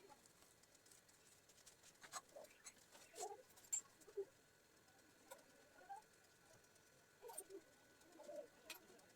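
Near silence with faint, scattered clicks and a few soft, short low sounds, irregularly spaced.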